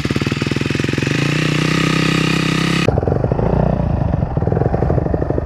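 Dirt bike engine running and revving up, its pitch rising over the first two seconds. About three seconds in the sound changes abruptly to a lower, rougher engine drone with heavy low rumble.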